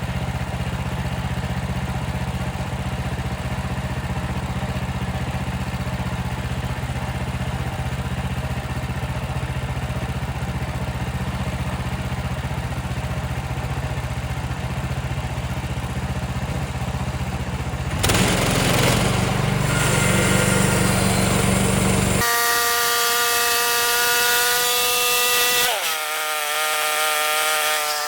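Portable band sawmill's gas engine running steadily, growing louder and noisier about 18 seconds in as the blade cuts through a pine log. About 22 seconds in the sound changes abruptly to a higher-pitched engine whine, which dips in pitch briefly near the end.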